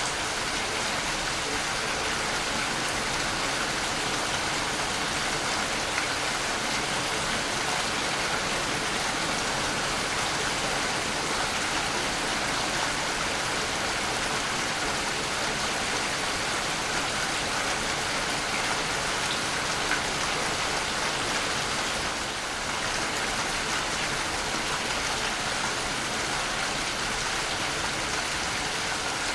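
Waterfall: a steady, unbroken rush of falling water, with a hiss that sits mostly in the middle and upper range.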